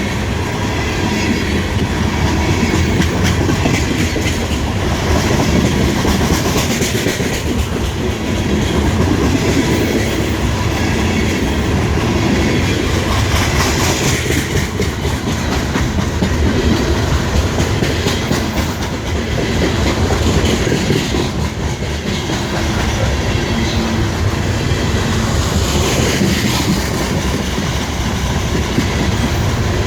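Cars of a CSX coal train rolling past steadily, their wheels clicking over the rail joints.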